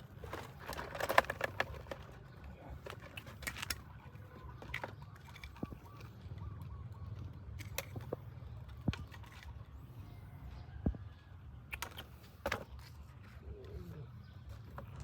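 Scattered clicks and rustles over a steady low rumble, with a cluster of clicks about a second in.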